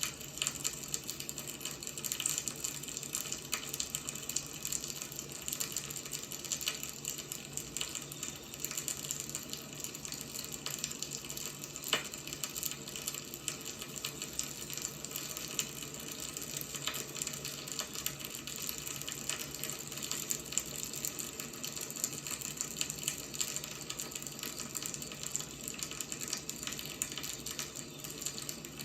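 Wood fire burning with a steady hiss and many small crackles and pops; one louder pop about halfway through.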